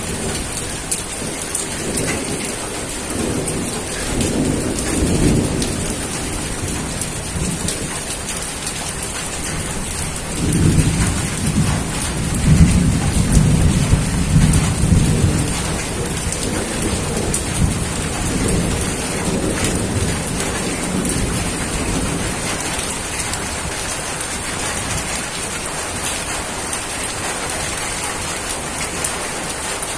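Steady rain falling, with thunder rumbling low twice, the longer and louder roll about halfway through.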